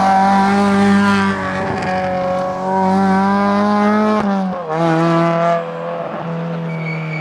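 Peugeot 206 RC rally car's four-cylinder engine held at high revs under full throttle. Its note dips briefly about four seconds in and then carries on at a slightly lower pitch.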